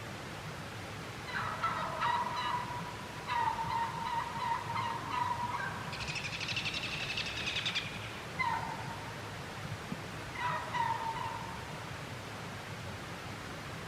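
Merriam's wild turkeys calling and gobbling in several bouts of a second or two. A higher, rapidly pulsing call comes about six seconds in and lasts about two seconds.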